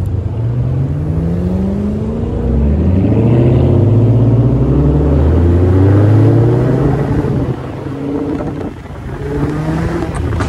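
Car engine accelerating hard from a stop, its pitch climbing and dropping back several times. It eases off about eight and a half seconds in, then picks up again.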